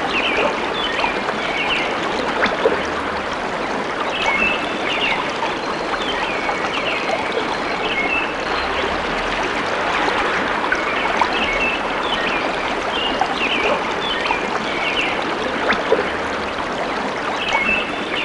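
Stream water flowing steadily, with short high chirps recurring every few seconds over it.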